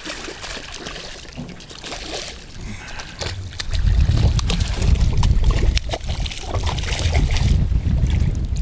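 Small boat drifting in choppy water, with water sloshing and splashing against the hull and small knocks. From about four seconds in, wind buffets the microphone with a heavy rumble that runs on after that.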